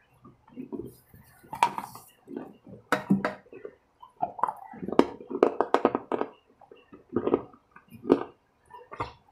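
Close-up chewing, heard as an irregular series of sharp mouth clicks and smacks.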